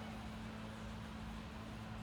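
Faint steady hum and hiss of background room tone.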